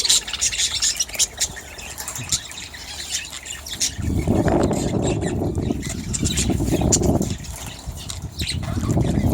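A flock of budgerigars chattering and squawking in rapid, scratchy bursts. A patch of low rushing noise joins in from about four seconds in to about seven seconds, and again near the end.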